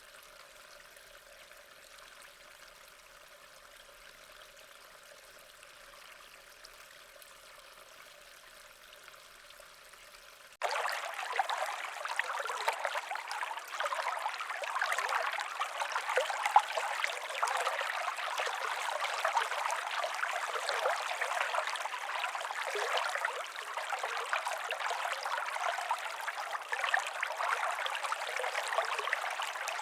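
Running stream water. It is faint for about the first ten seconds, then cuts abruptly to a much louder stream that runs steadily to the end.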